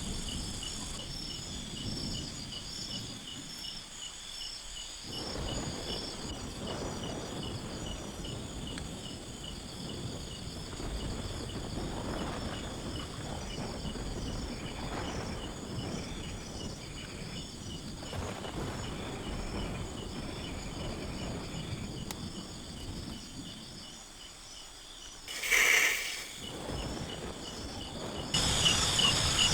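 Rainforest insects calling steadily, a chorus of fast, high, pulsing chirps, with a low rustling underneath. About 25 seconds in there is one brief, loud sound. From about 28 seconds on, the insect chorus is louder.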